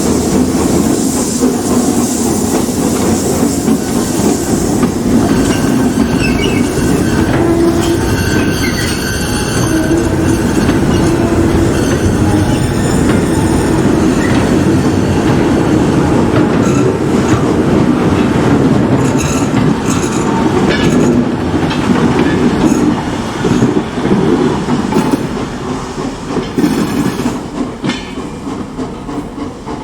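Heritage railway train rolling past on the rails, wheels clacking and at times squealing. The sound fades over the last few seconds as the train moves away.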